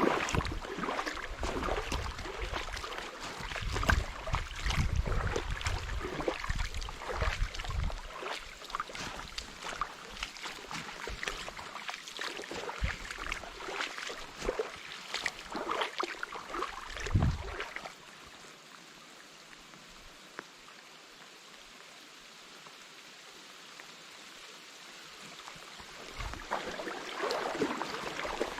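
Small trout stream running over stones, with irregular splashing and jostling close to the microphone through the first two-thirds, then a steadier, fainter rush of water that grows busier again near the end.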